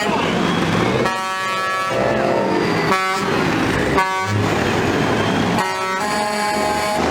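Truck horns blasting several times: a blast of about a second, two short toots, then a longer blast near the end, over the steady noise of running vehicles.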